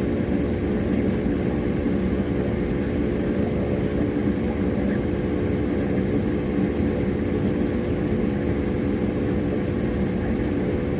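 A car's engine and road noise heard from inside the cabin while driving: a steady low rumble with an even hum that holds at one pitch throughout.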